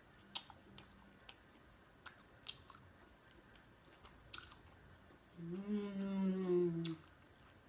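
Close-miked chewing of boiled shrimp: scattered soft wet smacks and clicks of the mouth. About five seconds in comes a closed-mouth "mmm" hum lasting about a second and a half.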